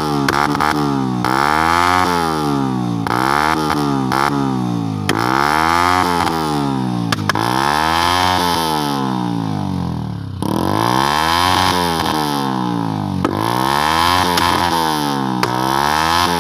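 Engine with an HKS aftermarket exhaust revved up and down over and over, about seven rises and falls of two to three seconds each, with sharp pops as the revs drop.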